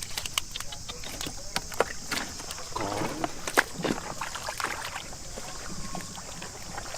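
Shallow field water splashing and sloshing in short, irregular bursts as someone wades and gropes for fish by hand, over a steady high hiss.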